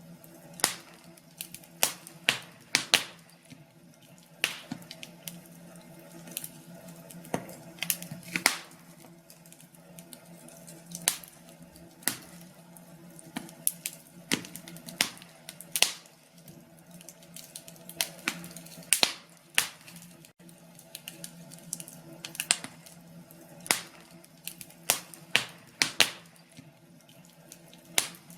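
Wood fire crackling in a fireplace: irregular sharp pops and snaps, a few a second with some louder cracks, over a faint steady low hum.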